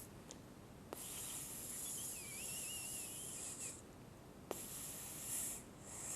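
Two long hissing bursts, each starting just after a sharp click, with a faint wavering squeak inside the first.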